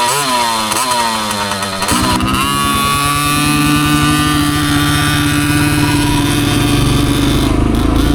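Dirt bike engines: a KTM 50's air-cooled two-stroke revving up and down in quick throttle blips. From about two seconds in, a steadier engine note runs over a low, fast pulsing.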